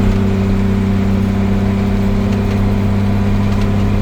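Truck engine running steadily at cruise, heard from inside the cab as an even, unchanging drone.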